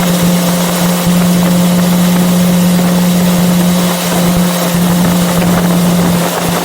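Yamaha FZ6R's inline-four engine pulling at a steady speed under way, its note holding an even pitch, over a steady rush of wind noise.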